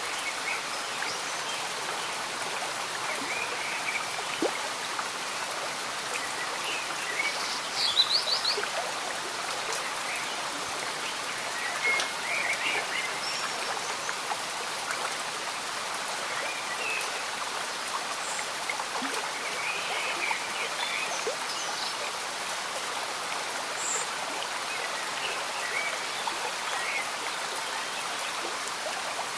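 Gentle stream bubbling steadily under light rain, with scattered short chirps from small animals, a quick run of them about eight seconds in.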